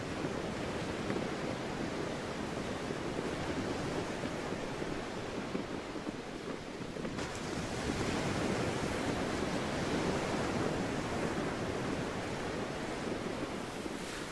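Sea waves washing, with wind blowing on the microphone: a steady rush that swells louder about halfway through.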